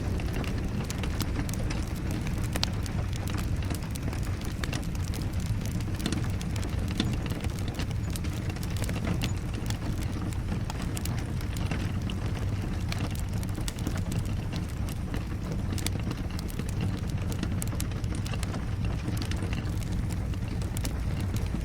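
Log fire crackling, with irregular sharp pops and snaps over a steady low rumble, and rain falling alongside.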